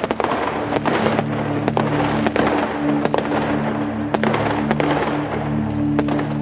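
Fireworks going off: a dense crackle with a dozen or so sharp bangs at uneven intervals, over a soft held synth chord.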